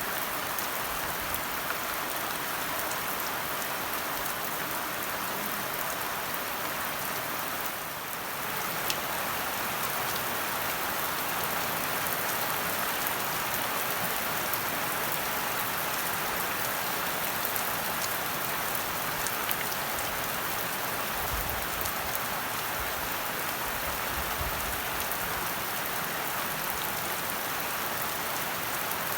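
Steady rain falling, an even hiss with scattered drop ticks; it dips briefly about eight seconds in, and a faint low rumble comes and goes later on.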